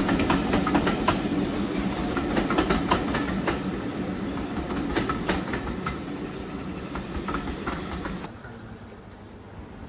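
Train rolling along the track, wheels clicking over the rail joints above a steady rumble. It grows gradually quieter, then drops off sharply about eight seconds in.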